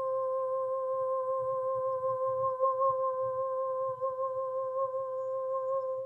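A woman's voice toning a single long, steady hummed note, held without a break until it cuts off at the end.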